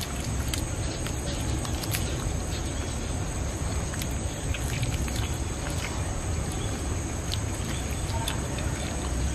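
Someone chewing and gnawing meat off a steamed chicken drumstick, with faint scattered small clicks. Under it is a steady low rumble and a continuous thin high whine.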